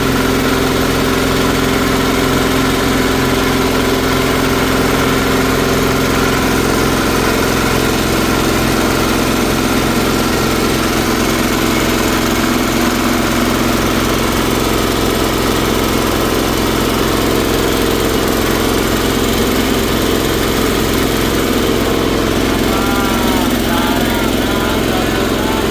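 Multi-purpose shredder-grinder machine running steadily on a trial run, shredding half-dry water hyacinth through an 8 mm screen, with a constant hum.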